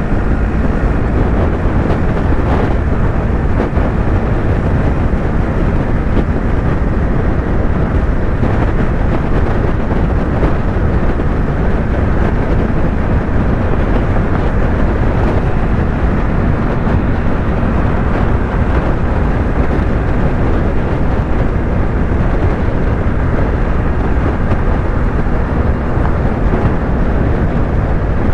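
Yamaha YZF-R3 parallel-twin engine running steadily at highway cruising speed, with heavy wind rush over the microphone.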